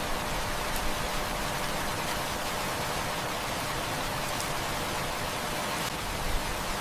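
Steady heavy rain, an even hiss, with a few faint clicks.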